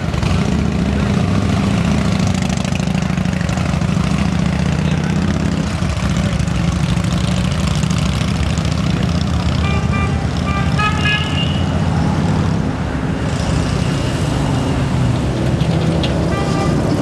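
Motorcycle engine running steadily under a constant rush of wind noise.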